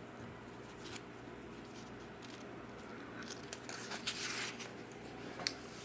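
Quiet room tone with a steady faint hum, broken by a few small clicks and rustles.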